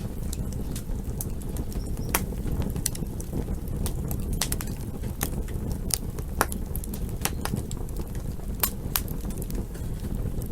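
Campfire crackling: irregular sharp pops and snaps, several a second at times, over a steady low rumble of burning wood.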